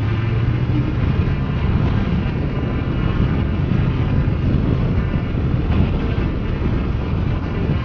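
Motorcycle engine running steadily under way, a continuous low rumble mixed with wind noise on the microphone.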